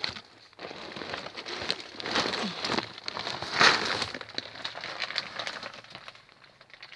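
Rustling and crinkling with many small clicks, loudest about three and a half seconds in.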